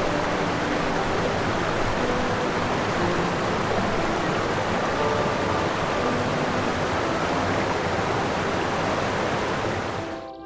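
A steady, even rushing noise with a few faint held tones over it, which cuts off abruptly near the end.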